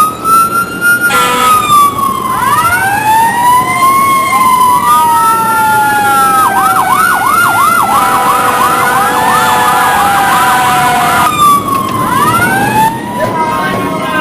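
Several emergency-vehicle sirens sound over one another in slow rising and falling wails. Around the middle, one switches to a fast yelp before the wails return.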